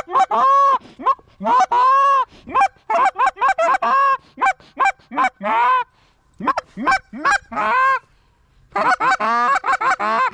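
Rapid strings of goose honks and clucks, with a few longer drawn-out honks in the first seconds. There is a short break about eight seconds in, then a fast run of clucks.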